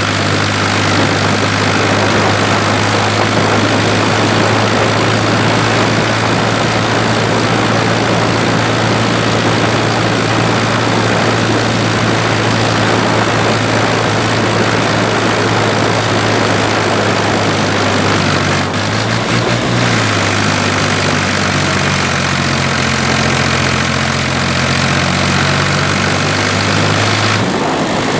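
Ford 3000 tractor's three-cylinder engine running steadily while the tractor is driven loaded. Its note changes briefly about two-thirds of the way through and again near the end.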